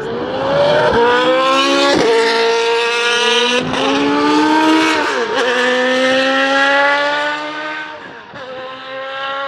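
Historic Formula Junior racing car engines at full throttle, climbing in pitch through the gears. Quick upshifts come about two, three and a half, and five seconds in. The sound fades as the cars move away near the end.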